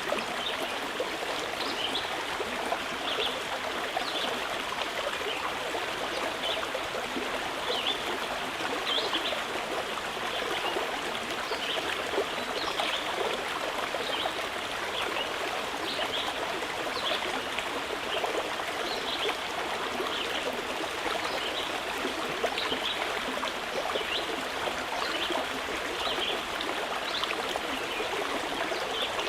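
Mountain river flowing steadily, with short high bird chirps every second or so above the rush of water.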